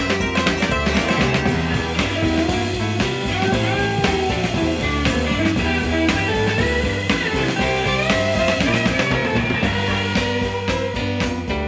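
Blues-rock band playing an instrumental break: bass and drum kit keep a steady beat under a lead line whose notes bend and slide up and down.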